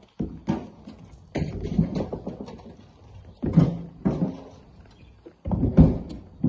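Rocks thrown by hand into a dump truck's steel bed: a series of heavy thuds and knocks at uneven intervals, several close together about a second and a half in, another pair about three and a half seconds in, and the loudest near the end.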